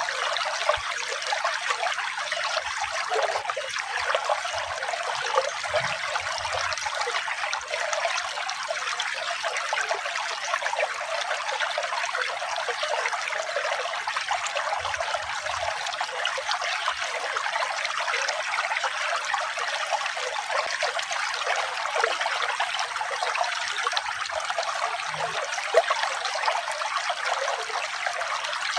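Running water trickling and splashing steadily, a continuous bright, fizzy rush with no change in level.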